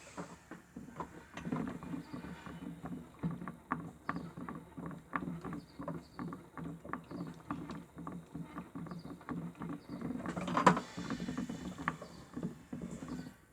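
Miele W1 toy washing machine running its cycle: a small motor turns the drum with a low hum and rhythmic sloshing and clicking strokes, a few a second. A louder knock comes about ten and a half seconds in.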